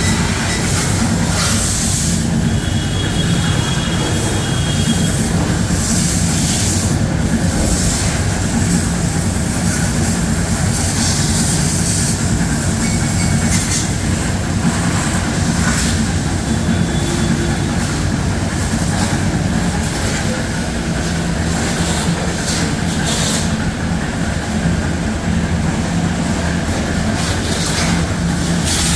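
Pressure washer running steadily with a constant low motor hum while its water jet sprays with a broad hiss.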